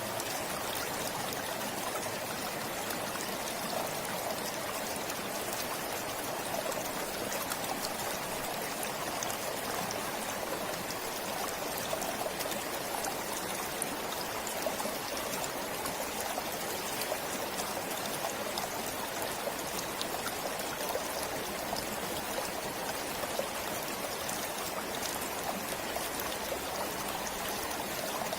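A forest stream flowing and trickling steadily over stones, with a constant rush of water and fine splashing.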